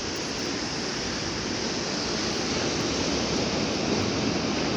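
Steady rushing noise of Atlantic surf breaking, mixed with wind.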